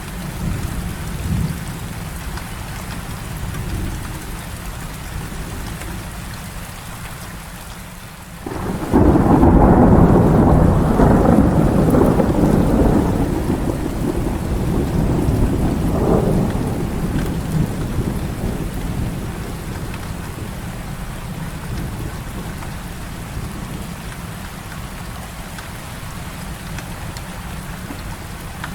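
Steady heavy rain, with a thunderclap breaking in suddenly about nine seconds in. The thunder rumbles loudly for several seconds, swells again, then dies away under the rain.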